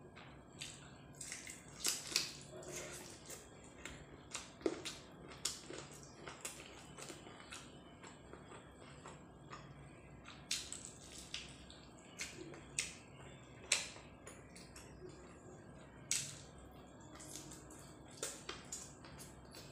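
A person eating close to the microphone: chewing and mouth smacks, heard as irregular short clicks, a few louder than the rest.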